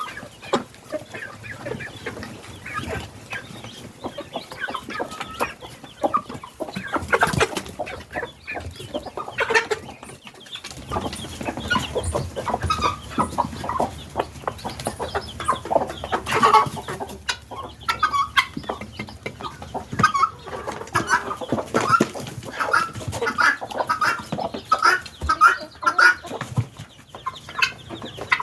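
A flock of helmeted guinea fowl calling, with many harsh calls overlapping. In the second half one bird repeats an even call about twice a second.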